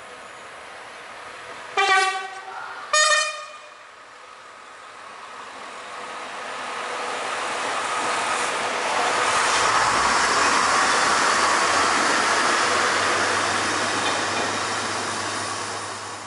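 Passenger train sounding its horn in two short blasts about a second apart, then passing close by: its running noise builds over several seconds and stays loud, with a low steady hum underneath, easing slightly near the end.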